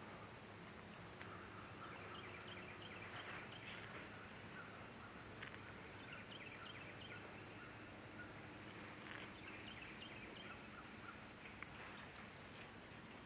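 Faint songbird chirps and calls, short and scattered, over quiet outdoor background noise.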